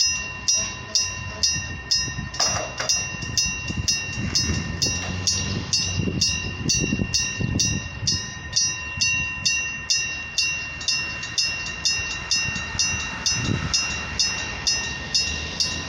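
Level crossing warning bell ringing steadily at about two strikes a second, each strike ringing on and fading, over the low rumble of a departing passenger train.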